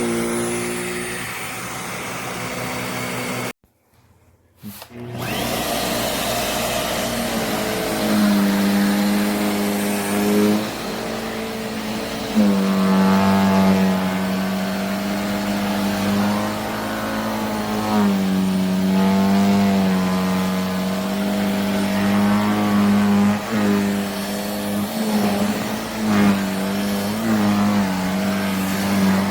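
Jimmy JV35 handheld mattress vacuum cleaner running with a steady motor hum. It cuts out for about a second near the start, then runs again, its pitch dipping and rising back several times.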